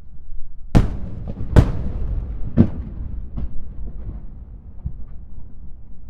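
Aerial firework shells bursting: three loud bangs about a second apart, then several fainter ones, over a low rolling rumble.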